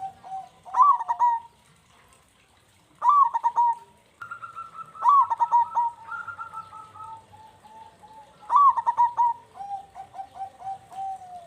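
Zebra doves (perkutut) cooing in repeated song phrases about every three seconds. Each phrase is a loud stuttering run of coos followed by a string of softer trailing notes, and two singers overlap in the middle.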